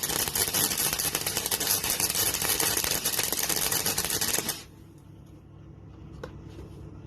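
MIG welder arc crackling steadily as it welds a gap in car body sheet steel, cutting off abruptly about four and a half seconds in. A single faint click follows near the end.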